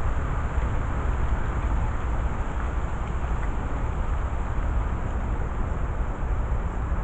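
Steady outdoor background rumble and hiss, with a deep low rumble and no distinct event standing out.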